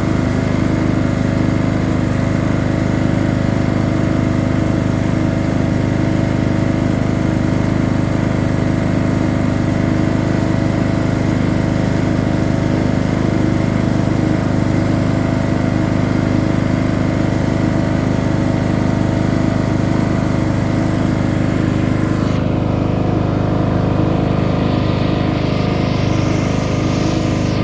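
Tractor engine running steadily at a constant speed. The higher hiss thins out about 22 seconds in.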